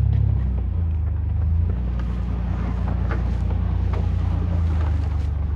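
A vehicle engine idling: a steady low rumble, with a few faint clicks over it.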